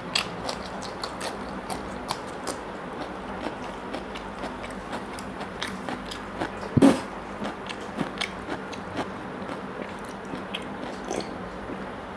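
Close-up eating sounds: a person chewing with small moist clicks of the mouth, crunching a slice of raw cucumber at first. There is one louder, longer noise a little past halfway.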